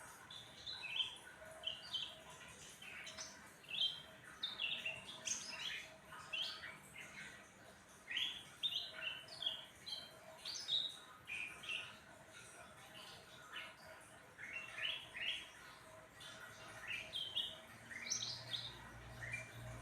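Cucak ranting songbird in full song, repeating quick phrases of short, high chirps with brief pauses between them.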